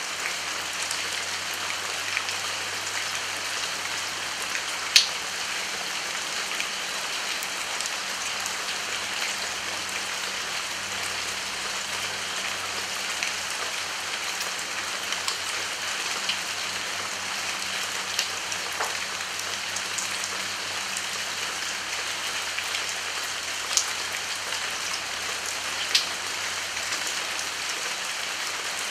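Rain falling steadily, a constant even hiss with single drops ticking sharply now and then; a few louder drops stand out about five seconds in and twice near the end.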